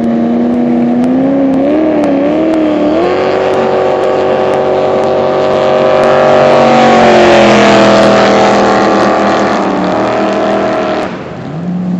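Jet boat engine running hard at high revs: the pitch wavers, then climbs about three seconds in, holds, and falls back in steps near the end as the throttle eases.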